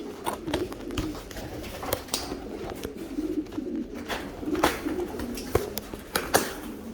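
Homing pigeons cooing continuously in a loft, with sharp clicks and taps scattered throughout.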